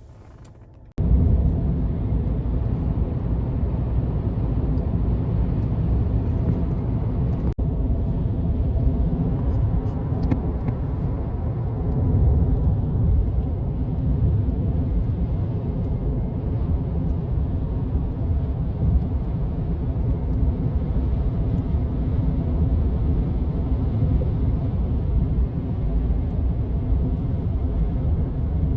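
Vehicle driving on the road: steady engine and road rumble that starts suddenly about a second in and holds an even level.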